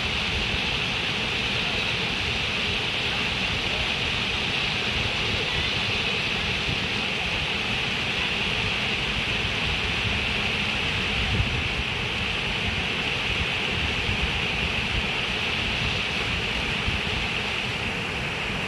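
Steady rush of running water, with a hiss that stays even throughout.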